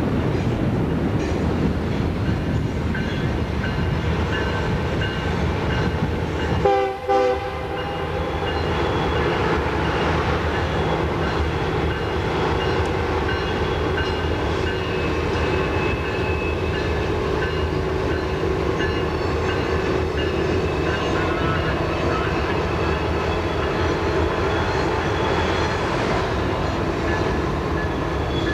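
A train running past on the rails with a steady rumble. About seven seconds in there is a short, loud horn sound, and thin high wheel squeal comes in later on.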